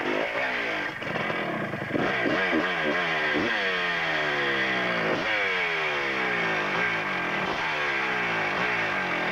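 Motorcycle engine on a hill climb, revved hard in repeated bursts: the pitch jumps up sharply about five times and falls away slowly between them.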